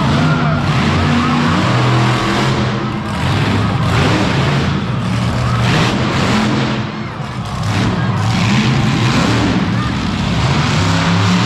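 Monster truck engine running loud and steady, with some shifts in pitch, over the noise of a crowd.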